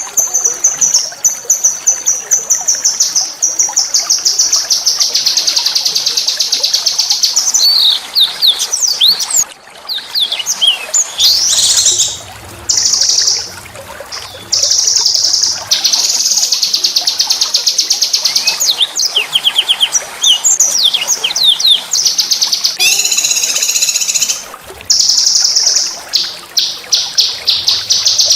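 A small songbird sings a harsh, rapid rolling song of high fast trills broken by sharp slurred notes, the rough 'shot' phrases played to excite and tutor caged white-rumped shamas and magpie-robins. The singing runs almost unbroken, with brief gaps about a third of the way in and again near the end.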